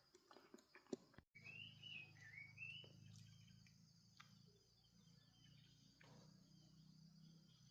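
Faint outdoor ambience: a bird's short warbling call a little over a second in, over a steady high insect drone and a low hum, with a few clicks near the start.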